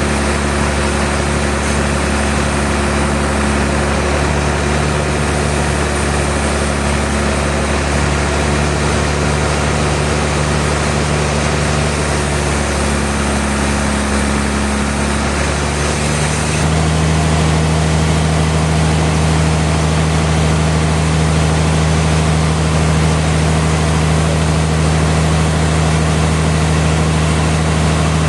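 Sawmill machinery running with a steady engine-like drone. About 17 s in it switches abruptly to a slightly louder drone of a different pitch.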